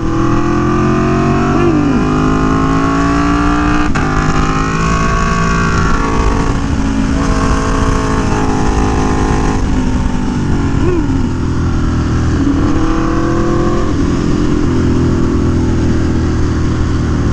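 Aprilia Tuono V4 1100 Factory's V4 engine, breathing through an SC Project CR-T exhaust, pulling up through the gears. Its pitch climbs and then drops at each of several shifts, over a constant low rumble of wind and road.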